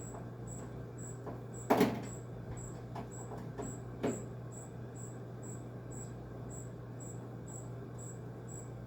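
Knocks and taps from working a stuck screw on a window air conditioner's case: a sharp knock about two seconds in and another about four seconds in, with lighter taps between. Under them runs a steady low hum and a faint high tick about twice a second.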